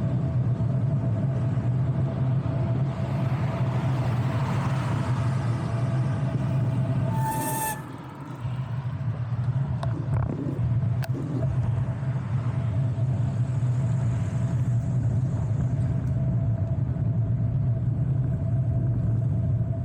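Steady low rumble of road and wind noise while riding a bicycle. A vehicle swells past about three to seven seconds in, and a brief high squeal sounds about seven and a half seconds in.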